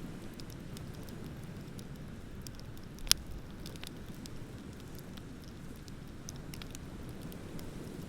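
Wood bonfire crackling with scattered small pops, and one sharp, loud pop about three seconds in, over a steady low rush of ocean waves.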